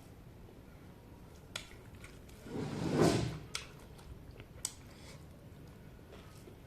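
Close-up mukbang eating sounds: a few soft mouth and chewing clicks, and one short rush of noise about three seconds in.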